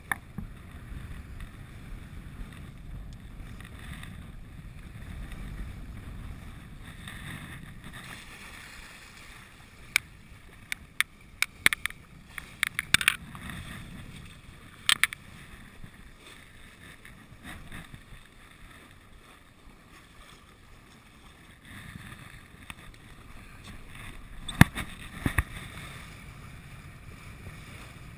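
Sailboat under way in light wind: a low rumble of wind on the microphone and water along the hull. There are clusters of sharp clicks and knocks about ten to thirteen seconds in, one at fifteen seconds, and a few more near the end, the loudest of them there.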